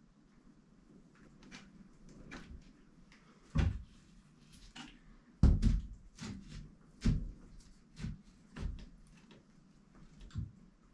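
A series of irregular knocks and thumps indoors, about a dozen in all, the loudest about five and a half seconds in.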